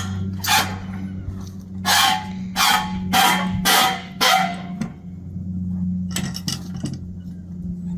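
A dog barking, about eight barks in quick runs, over a steady low machine hum.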